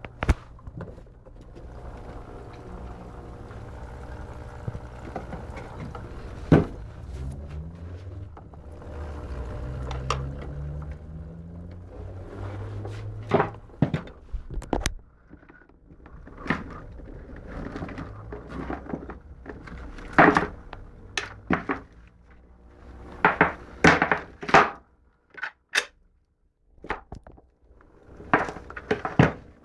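A series of sharp knocks and clunks of hard objects being handled, over a low steady hum that fades out about halfway through.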